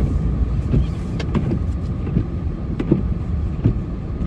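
Snowplow truck running, heard from inside the cab: a steady low engine and road rumble with scattered short knocks.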